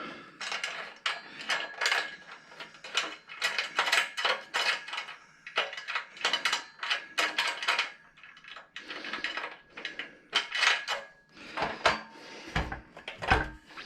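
Small metal parts clinking and rattling in quick irregular strikes as hardware is worked into the frame rails, with brief pauses about halfway through and near the end.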